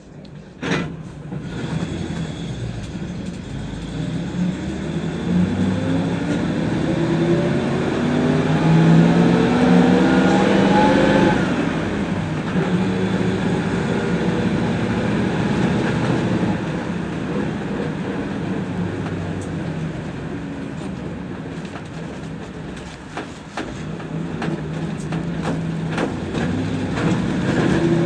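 PAZ-32054 bus's V8 petrol engine heard from inside the cabin, pulling away after a knock about a second in: it revs up, rising in pitch, drops back at a gear change near the middle, runs on steadily, then starts to rise again near the end.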